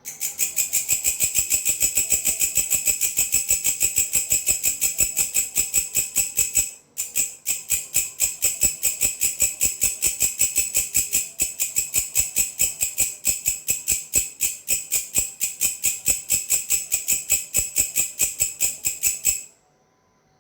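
Katydid (walang kecek) calling: a rapid, even train of sharp, high chirps, about five or six a second, with a short break about seven seconds in. It cuts off suddenly near the end.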